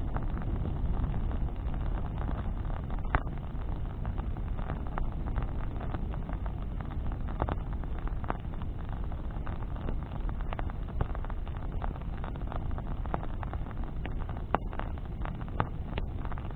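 Wood bonfire burning, with scattered sharp crackles and pops from the burning branches over a steady low rumble of flame and wind on the microphone; the loudest pops come about three seconds in and near the end.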